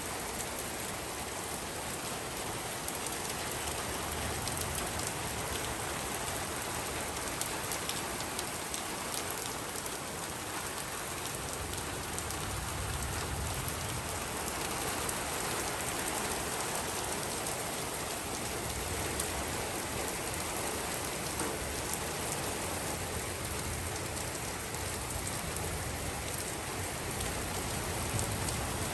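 Heavy rain pouring down steadily, with countless drops striking hard surfaces.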